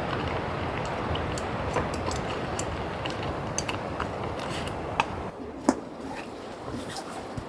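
Rain on an air tent: a steady patter with many scattered sharp ticks of single drops striking the fabric.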